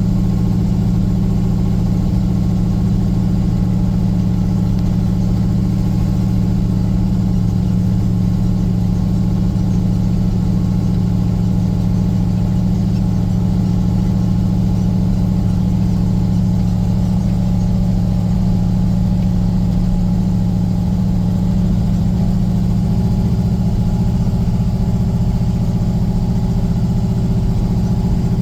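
Vehicle engine running steadily at a low, even speed, a constant low hum with no revving or shifts.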